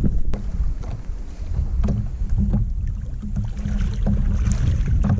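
Water sloshing and lapping close to the action camera, with wind buffeting its microphone and a few light knocks.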